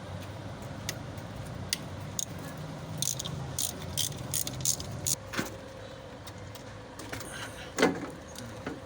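Small metal parts clicking and clinking as a wing-van motor's carbon brush holder and housing are handled and taken apart, over a low steady hum, with a louder knock near the end.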